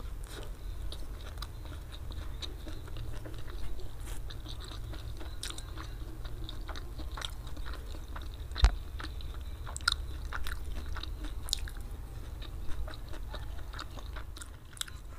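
Close-miked chewing of fried flat rice noodles, with many small, irregular wet mouth clicks over a low steady hum. A single sharp knock about two-thirds of the way through is the loudest sound.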